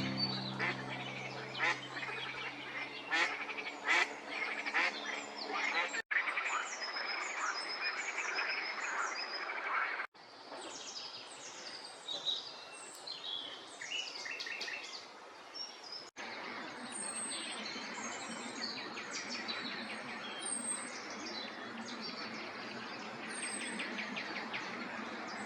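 Wild birds singing and calling, a busy chorus of chirps, trills and whistles, cut three times into different recordings. A low steady hum runs under the first six seconds.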